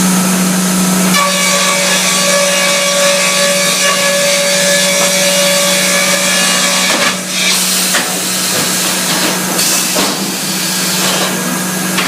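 Baker band sawmill machinery running and sawing oak: a steady motor hum under the noise of the cut. The sound shifts about seven seconds in, and there is a sharp knock near ten seconds.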